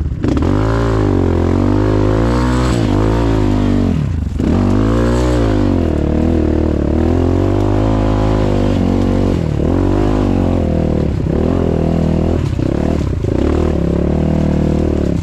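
Off-road motorcycle engine revving up and falling back again and again as it is ridden hard over rough ground, with a short drop in revs about four seconds in.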